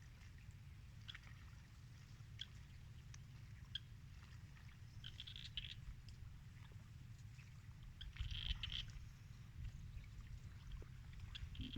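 Buffalo feeding: scattered small crunches and rustles of fodder over a low rumble, with two short louder bursts of rustling about five and eight and a half seconds in.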